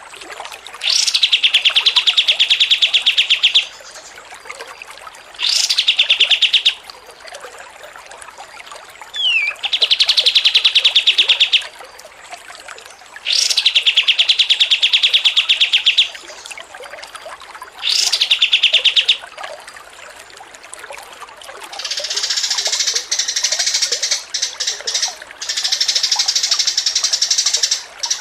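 Songbird singing: a run of loud, very fast trills, each one to three seconds long and usually opened by a quick rising note, with short pauses between; near the end it breaks into a longer, busier song of rapid chattering notes.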